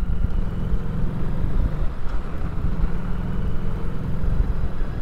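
Harley-Davidson Street 500's V-twin engine running steadily under way, with road noise from riding over milled, grooved asphalt.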